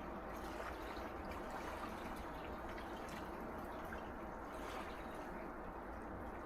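Small sea waves lapping at the shore, a steady wash of water with little splashes and trickles.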